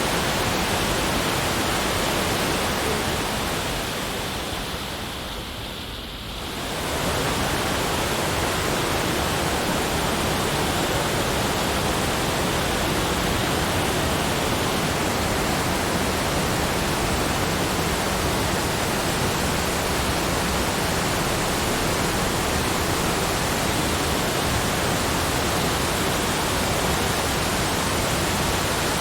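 Steady, even rushing noise from a nature-sound track, close to the sound of a waterfall. It fades down for a couple of seconds about four to six seconds in, then comes back to the same level.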